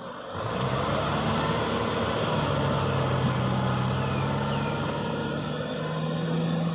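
Kubota diesel engine running steadily while plowing, its pitch rising slightly near the end.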